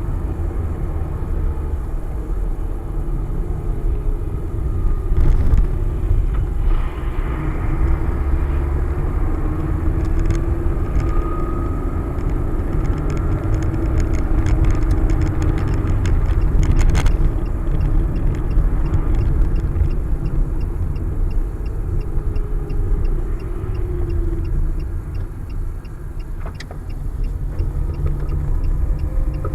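Car on the move: a steady low rumble with a slowly wavering hum, and a few short clicks now and then.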